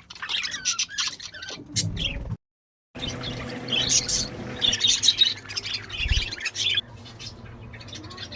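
A flock of pet budgerigars and cockatiels chirping and squawking rapidly over one another. The sound drops out completely for about half a second a little over two seconds in, and the calls thin out near the end.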